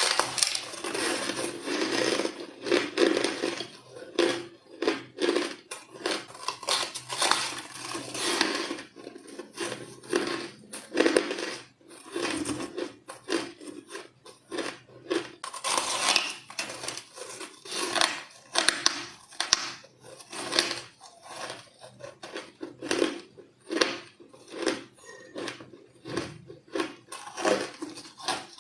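White ice being bitten and crunched between the teeth: a rapid, irregular run of crisp cracks and crunches with brief pauses between mouthfuls.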